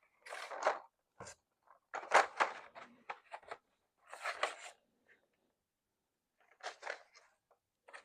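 Coloured pencils rattling and clicking against each other as they are rummaged through to find one colour, in four short bursts of clatter.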